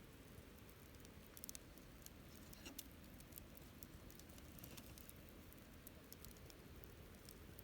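Wood fire crackling quietly: irregular small snaps and pops of burning wood over a low, steady hiss.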